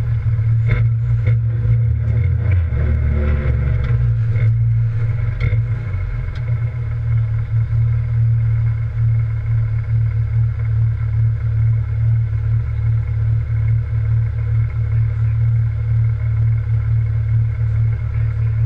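Rally car engine running at low revs, heard from inside the cabin, with several clunks and knocks and a change in the engine note in the first few seconds as the car pulls away slowly, then a steady low drone.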